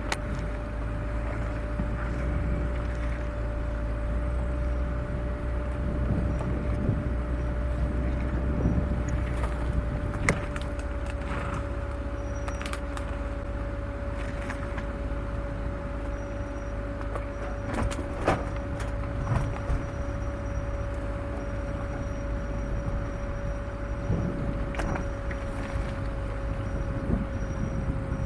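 Off-road vehicle crawling along a rough, overgrown forest track: a steady low engine and drivetrain rumble with a constant hum, broken by scattered knocks and clunks, the loudest about ten seconds in and again near eighteen seconds.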